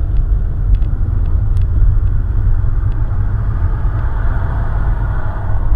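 Car driving on the road, heard from inside the cabin: a steady, loud low rumble of road and engine noise with a few faint clicks, and a swell of tyre hiss near the end.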